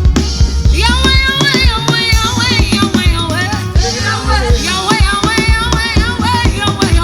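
Live gospel worship music: a singer's voice over a band with drum kit and bass, the voice coming in about a second in.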